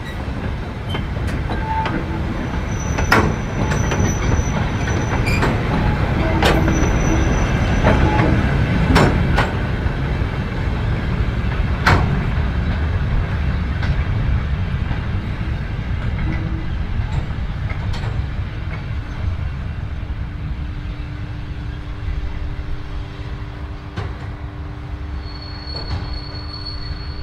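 Heritage railway train rolling along the rails, with a continuous heavy rumble and scattered metallic clanks from the wheels. Brief high wheel squeals come twice in the first several seconds and again near the end.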